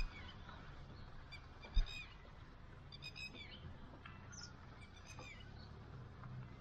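A bird calling repeatedly: about five short groups of harsh, overtone-rich calls a second or so apart, over a low steady hum from the car. A single brief thump just under two seconds in.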